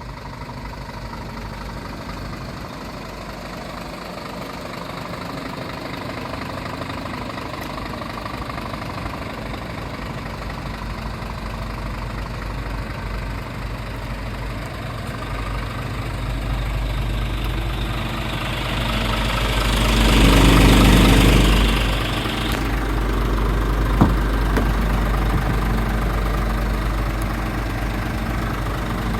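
Scania R450 truck's 13-litre straight-six diesel idling steadily. Past the middle a louder rush of noise swells for about three seconds and stops abruptly, followed shortly by a single sharp click.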